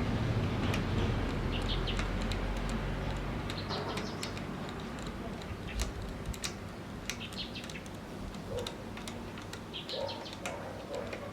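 Small birds chirping in short, repeated calls, with scattered sharp clicks and taps over a low steady hum.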